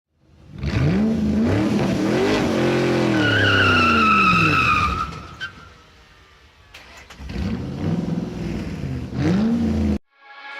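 Vyrus 987 C3 4V's supercharged Ducati 1198 cc V-twin revving up and down in two bursts, with a high whine falling in pitch during the first burst. The engine sound cuts off suddenly near the end.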